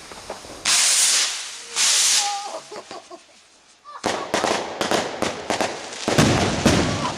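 Two homemade black-powder rockets launching one after the other, each a loud hiss of about half a second. From about four seconds in comes a rapid string of sharp bangs and cracks as the rockets' multi-salute breaks go off, the loudest a little after six seconds.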